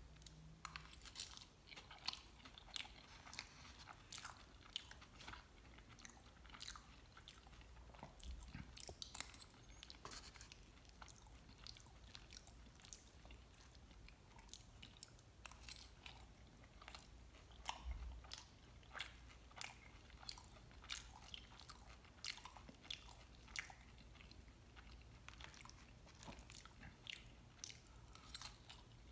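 Faint, close chewing and biting of mole chilaquiles, sauce-softened corn tortilla chips, with frequent short clicks and occasional crunches from the chips.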